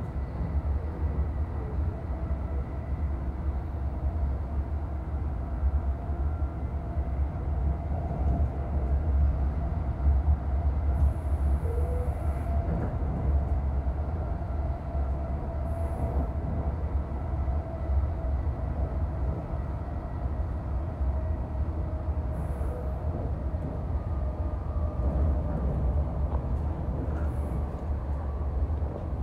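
Steady low rumble of an NJ Transit Multilevel passenger coach running at speed on the rails, heard from inside the car.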